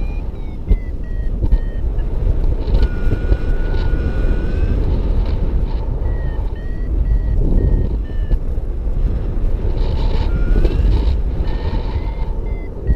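Paragliding variometer beeping in short repeated beeps, about three a second, whose pitch steps up and down, with a few longer held tones. Under it runs heavy wind rush on the microphone from the flight.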